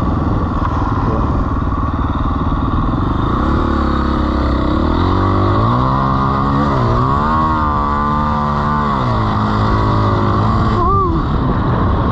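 Dirt bike engine running under throttle, its pitch climbing about three to four seconds in, revving up and down for several seconds, then dropping back to a steady run.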